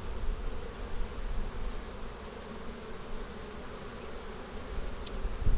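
Honey bees buzzing around an opened hive: a steady, even drone over a low rumble.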